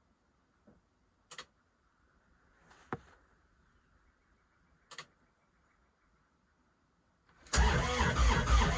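A few faint clicks, then about 7.5 seconds in the starter begins cranking the Kubota RTV900's three-cylinder diesel engine with a rough, pulsing churn. This is a cold start at -8°F on summer diesel that has waxed with ice crystals in the tank, so the engine is slow to catch.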